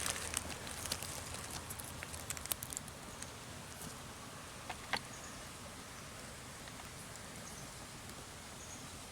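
Dry leaf litter and twigs crackling with scattered sharp clicks that thin out after about three seconds. Then a faint steady outdoor hiss with a couple of isolated ticks.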